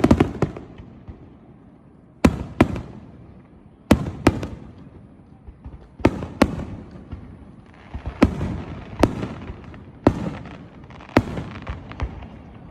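Aerial fireworks bursting: a string of sharp bangs, one to two seconds apart, each followed by a rolling echo, with a spell of crackling around the middle.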